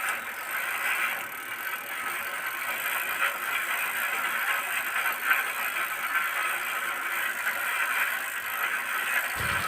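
Plastic toy bicycle pushed along by hand, its small wheels rolling across a surface with a steady rolling noise.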